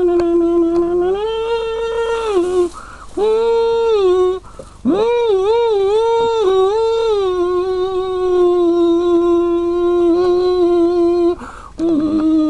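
Eerie sci-fi spaceship sound effect: a long held hum-like tone that glides up and down, broken into several notes by short gaps, with a wavering stretch of about four quick wobbles in pitch around the middle and a long steady note after it.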